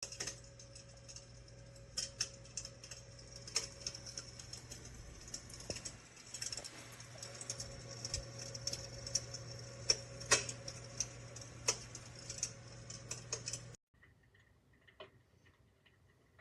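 Simulated fire crackling from an electric fireplace insert's built-in sound effect: irregular pops and clicks over a steady hiss and low hum, cutting off suddenly near the end.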